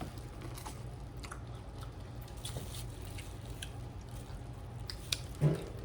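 Close-up eating sounds from a seafood boil: soft chewing, biting and small wet smacks and clicks, over a steady low hum. A brief voiced sound comes near the end.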